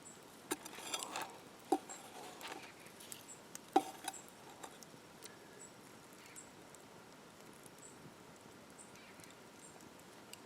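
A few light knocks and clicks in the first four seconds, some with a short ring, then only a faint steady background.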